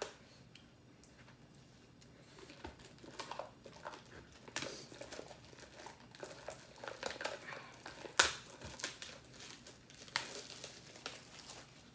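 Plastic food packaging being handled, crinkling and rustling in irregular spells after a quiet start, with one sharp click about eight seconds in.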